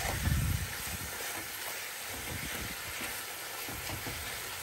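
Onion-tomato masala sizzling in a kadhai while a steel spatula stirs and mashes the tomatoes, with a low thud right at the start.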